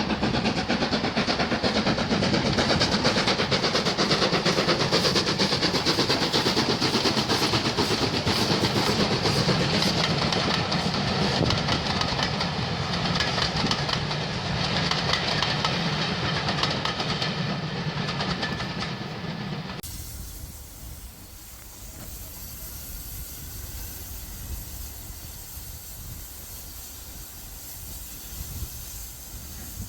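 A train running on the rails, a loud, dense rumble with wheel noise. About two-thirds of the way through it cuts abruptly to a quieter, steady hiss of steam.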